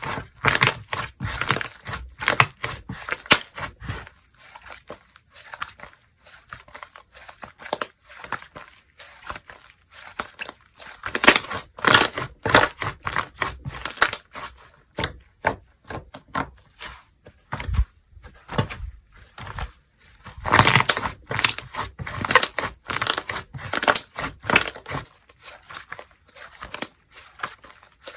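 Slime being squeezed, stretched and pressed by hand, giving rapid crackly clicks and pops, with louder bursts of clicking about halfway through and again later on.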